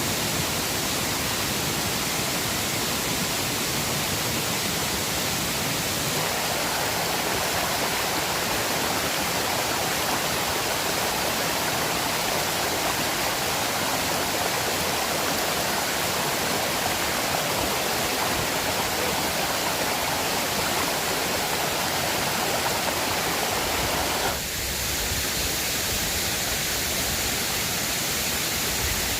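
Steady rushing of river water, a full, even noise. Its character changes abruptly about six seconds in and again near the end.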